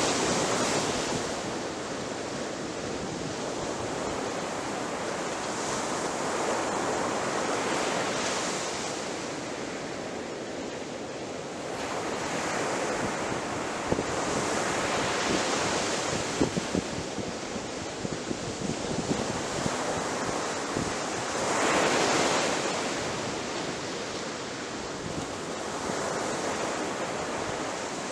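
Ocean waves breaking on a shore: a steady rush of surf that swells and eases every several seconds, the biggest wave a little past two-thirds of the way through, with faint crackling spray in the middle.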